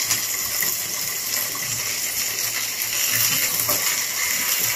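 Garlic and tomato frying in butter in a small pan: a steady sizzle.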